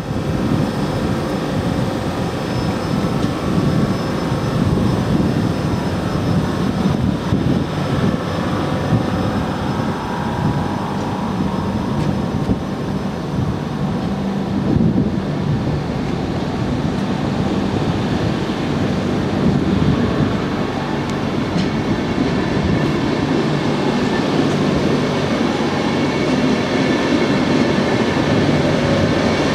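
ÖBB Railjet passenger coaches rolling past at close range: a steady, dense rumble of wheels on the rails, with a few faint high steady tones above it.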